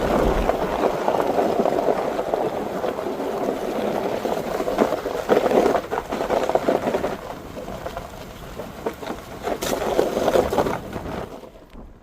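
Ford Super Duty pickup driving over a sandy dirt road in four-wheel drive: a steady rumble of tyres and running gear with scattered knocks and rattles from the bumps. The noise drops away suddenly about eleven seconds in.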